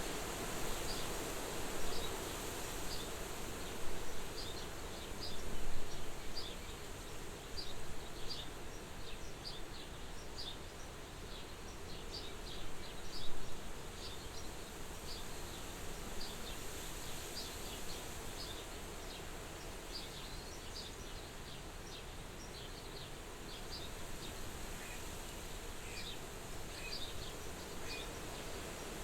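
Soft wind blowing at a farmhouse window, swelling in gusts a few times in the first half, with many short, high chirps scattered throughout.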